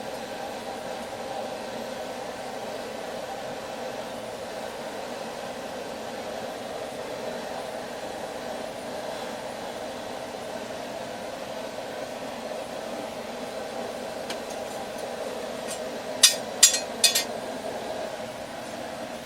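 Steady rush of air from a forge blower, with about four sharp hammer strikes on steel near the end.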